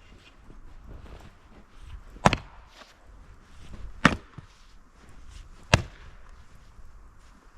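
Firewood being split by hand: three sharp chopping strikes of a heavy splitting tool into wood, spaced about a second and a half to two seconds apart.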